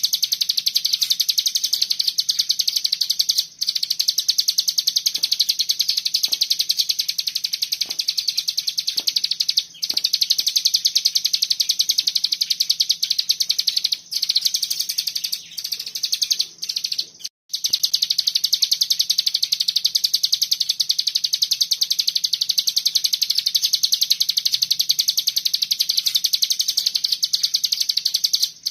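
Cigun songbird singing a fast, dense 'bren' trill of very rapid repeated notes, broken by a few brief pauses.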